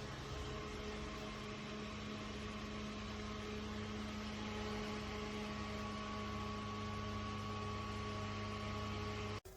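Small rechargeable desk fan running steadily: the whir of its blades and the hum of its motor, with several steady tones. The sound cuts off abruptly near the end.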